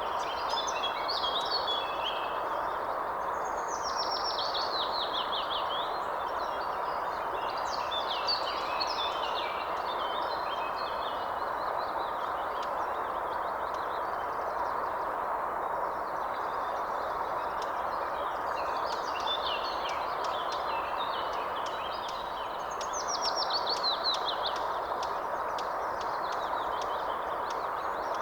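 Songbirds singing in repeated phrases of quick, falling whistled notes and chirps, over a steady background hiss.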